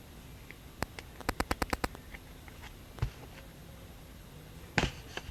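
Handling noise: a single sharp click, then a quick run of about eight clicks, a low thump about three seconds in, and a louder click near the end.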